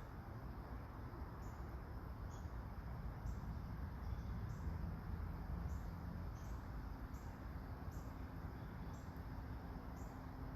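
Light autumn rain falling as a steady hiss, with a short high chirp repeating about once a second, unevenly spaced.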